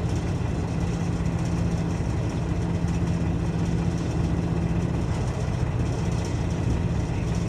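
A heavy diesel engine idling steadily at constant speed.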